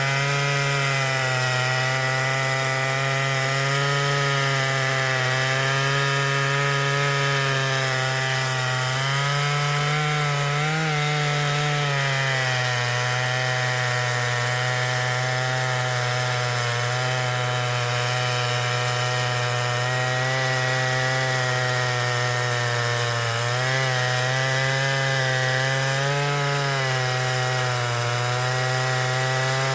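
Stihl MS 881 two-stroke chainsaw held at high revs under load, ripping lengthwise through a hemlock log in an Alaskan chainsaw mill. The engine note stays steady, wavering slightly a couple of times as the cut goes on.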